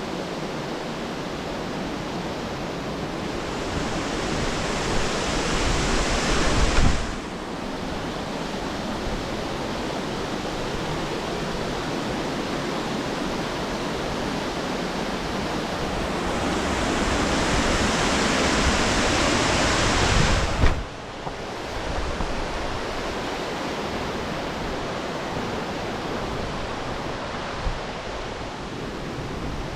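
Steady rushing of a waterfall and its cascades. Twice the hiss swells louder and then drops off suddenly, about seven seconds in and again about twenty-one seconds in.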